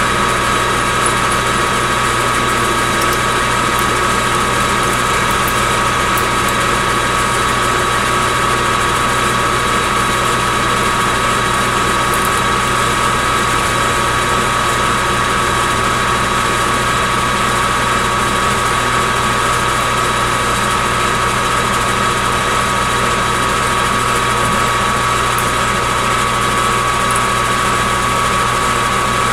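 Metal lathe running steadily, with a constant high whine over its motor hum.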